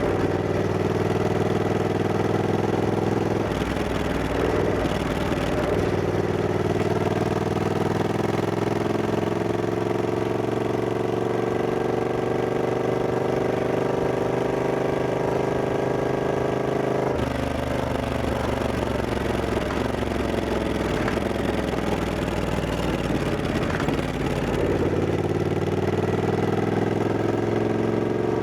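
Triumph Scrambler 1200X's 1200 cc parallel-twin engine under way, its pitch climbing steadily for about ten seconds as the bike speeds up. It drops suddenly about halfway through, then rises again near the end.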